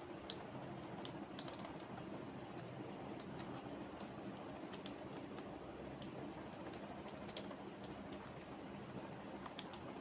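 Computer keyboard typing, faint keystrokes coming in irregular scattered runs over a steady low background hum.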